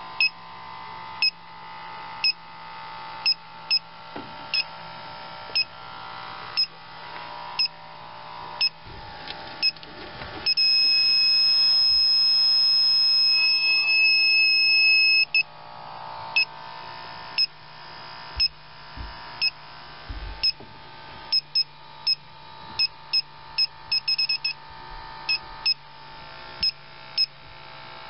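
Electronic refrigerant leak detector (Inficon TechMate) clicking out short beeps about once a second. About ten seconds in it sounds a steady alarm tone for about five seconds, then goes back to beeping, faster near the end: it is picking up R-22 leaking at the coil's welds. A low steady hum runs underneath.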